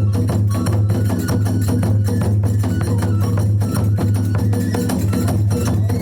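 Kagura festival music: drums beaten in a fast, even rhythm with metal hand cymbals, the strokes running without a break.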